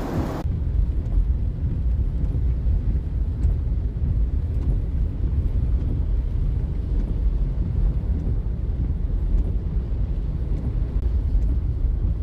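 Car driving along, a steady low rumble, after hissing storm noise cuts off about half a second in.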